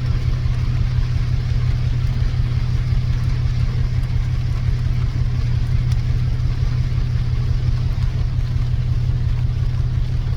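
Steady, even rush of heavy surf breaking, with rain, under a loud constant low rumble.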